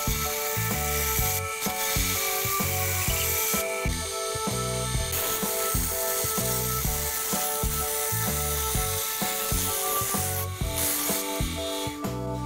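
Wood lathe spinning an ebony cylinder while a hand-held turning tool cuts into it, giving a steady rough scraping hiss. It drops away just before the end. Background music with a melody and bass line plays throughout.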